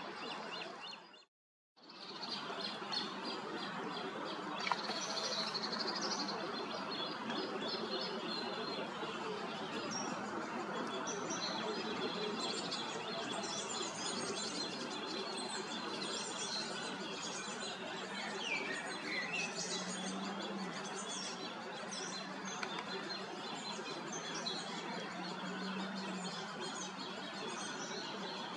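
Small birds chirping and singing, many short high calls, over a steady background hiss of outdoor noise. The sound cuts out briefly about a second and a half in.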